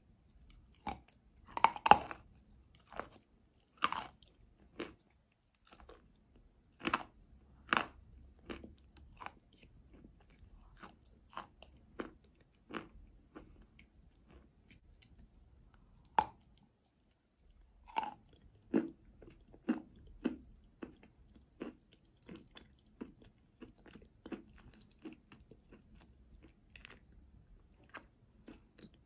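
Close-up mouth sounds of a person biting and chewing pieces of chalk spread with paste: a series of sharp crunches, loudest in the first eight seconds, then quieter, more frequent chewing clicks.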